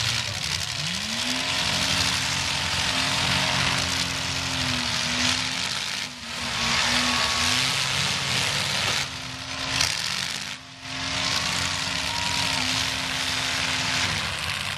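Demolition derby car engines running hard, one revving up about a second in and held at a steady high pitch for most of the stretch, over a dense wash of noise from the other cars.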